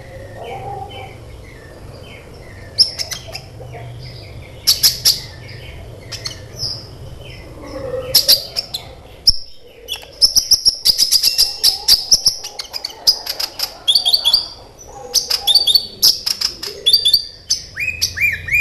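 Sunbird song: rapid high-pitched chirps and trills in quick clusters, becoming dense and almost continuous about halfway through, over a faint low hum.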